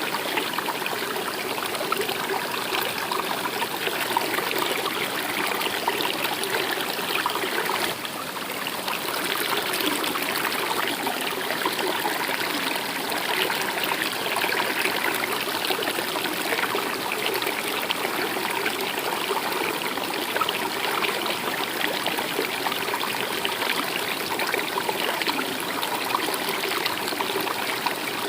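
Stream water running steadily, an even rushing trickle.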